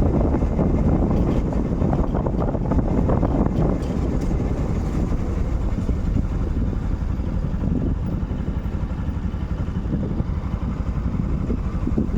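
Motorcycle engine running while riding, a steady low rumble that eases slightly a little past the middle.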